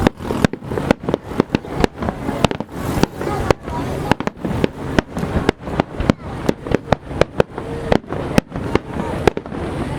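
A fireworks finale barrage: shells bursting in quick, irregular succession, several sharp bangs a second over a continuous rumble of overlapping explosions.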